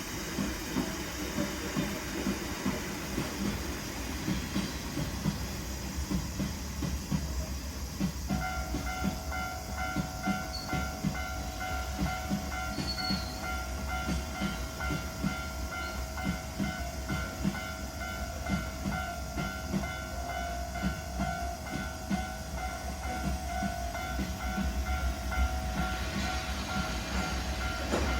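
Cement freight train rolling past, its wagon wheels clicking rhythmically over the rail joints. About eight seconds in, a steady ringing tone joins and runs until it cuts off near the end.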